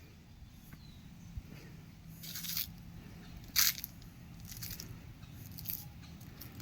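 Four short crunching noises, the loudest about halfway through, over a faint steady low hum.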